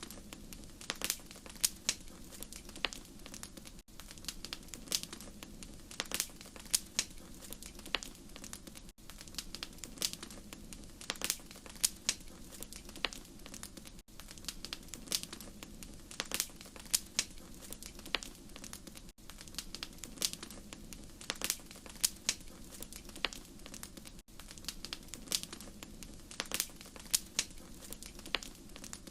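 Wood fire crackling: frequent sharp pops and snaps over a steady low hiss of burning. A brief dropout comes about every five seconds, and the pattern of pops seems to repeat at that spacing, as from a short recording played on a loop.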